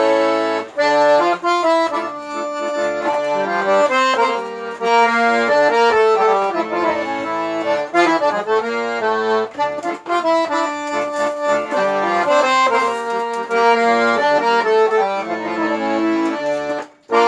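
Accordion playing an instrumental passage: a melody over punctuated bass notes in a steady rhythm, with a brief break just before the end.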